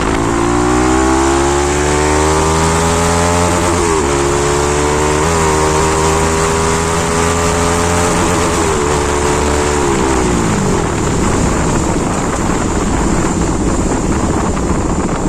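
Bajaj Pulsar NS200 single-cylinder engine through a modified aftermarket exhaust, pulling up with a rising note, dipping briefly at gear changes about four and five seconds in, holding steady, then falling away as it slows about nine seconds in. Wind and road noise on the phone microphone fill the last few seconds.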